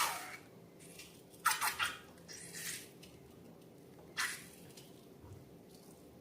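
Slime being handled and mixed: a handful of short, wet, crackly squelches coming irregularly, a second or so apart.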